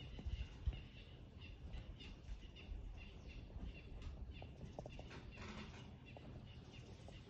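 Quiet outdoor ambience with birds chirping in short repeated calls, and a few low thumps in the first second.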